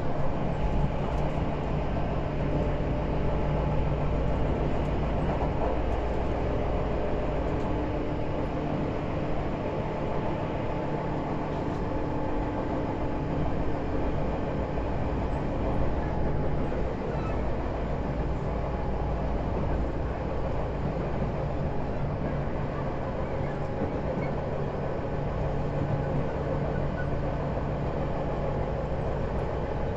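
Tobu 10030 series electric train running between stations, heard from inside the car: a steady rolling rumble of wheels and running gear with a low hum.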